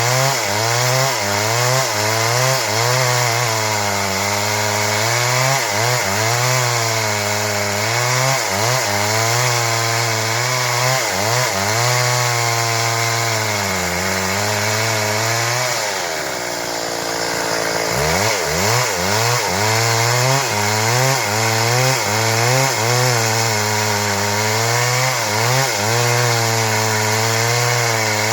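Stihl MS 382 two-stroke chainsaw cutting into wood under load, its engine pitch wavering as the chain bogs and recovers in the cut. About sixteen seconds in the throttle eases and the engine drops low, then it revs back up into the cut about two seconds later.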